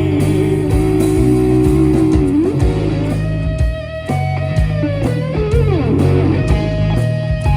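Live blues-rock band playing an instrumental passage: a lead electric guitar with bent, held notes over bass guitar and drums.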